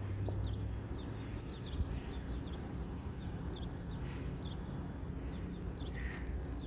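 Short descending bird chirps repeating many times, over walking footsteps on a trail and a steady low rumble.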